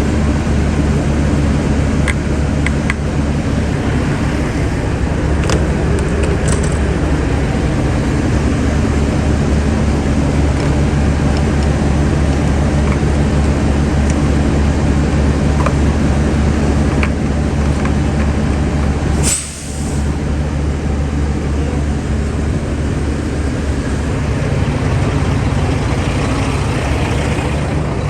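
Semi-truck's diesel engine running steadily at idle, a constant low hum. A short hiss cuts in about two-thirds of the way through.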